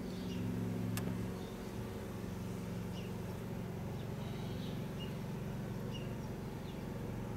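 Steady low droning hum made of several even tones, with a sharp click about a second in and a few faint bird chirps.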